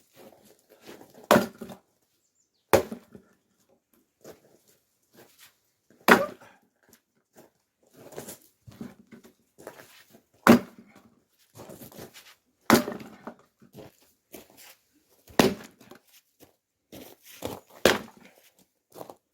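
Oak firewood being split by hand: about eight sharp chopping blows a few seconds apart, each one a hard crack of the blade into the log, with quieter knocks of wood pieces between them.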